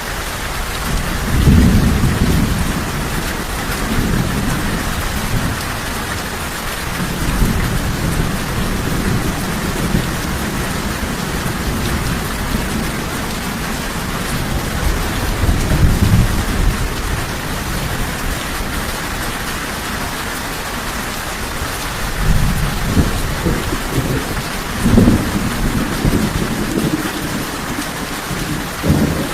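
Steady rain falling, with low thunder rumbling in slow swells about two seconds in, around the middle, and again several times near the end.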